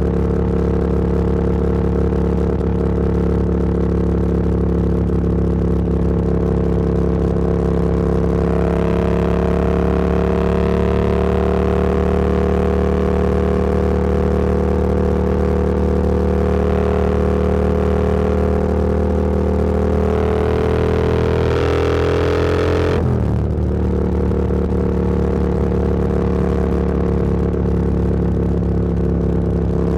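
Motorcycle engine running under way, its revs climbing slowly as it accelerates. About three quarters of the way through, the pitch drops suddenly as it shifts up a gear, then it holds steady.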